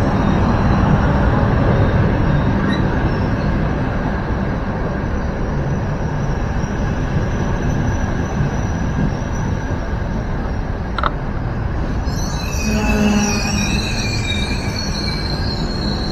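Frecciabianca passenger train rolling along the platform, with a steady rumble of wheels on the rails. About twelve seconds in, a high-pitched wheel squeal sets in.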